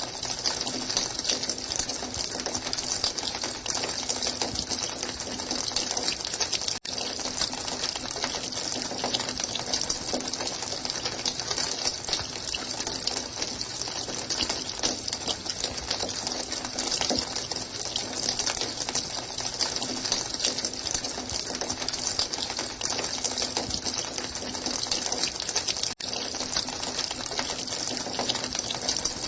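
Running water flowing in a steady, even gush, with two very brief dropouts partway through.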